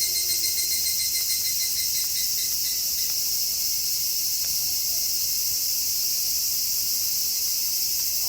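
Crickets chirping steadily in a high-pitched night insect chorus. The low, falling tail of a wolf howl dies away in the first half second.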